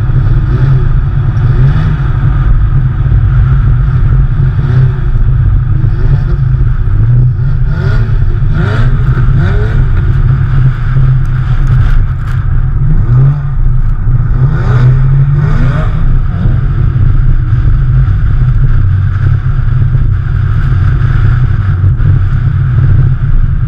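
Porsche 911 flat-six engines running under a steady low drone, revving up repeatedly in short rising surges as the car is drifted through the bends, most clearly through the middle.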